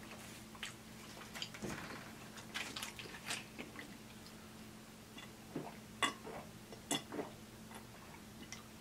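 Faint mouth and chewing sounds with scattered small clicks, as a plastic bottle is handled and drunk from, over a low steady hum.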